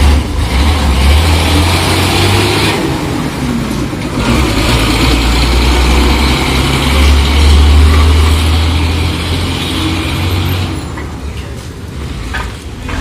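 Heavy truck passing on a road: a low engine drone with tyre and road hiss, growing loudest about two-thirds of the way through, then easing off.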